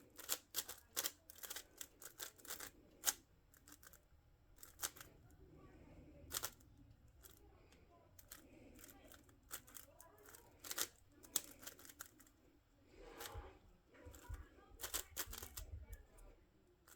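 Plastic puzzle cube being turned by hand: irregular flurries of quick, sharp clicks as the layers snap round, with short pauses between turns.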